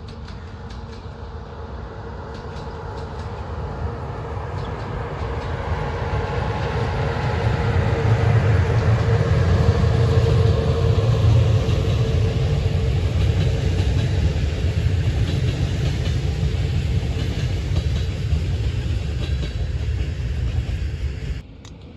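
Train running past, its low rumble and wheel noise building to a peak about halfway through and holding, with a steady hum over it; it cuts off suddenly near the end.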